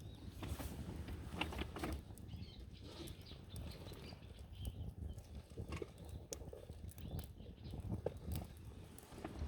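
Campfire crackling, with irregular pops from the burning wood over a low steady rumble.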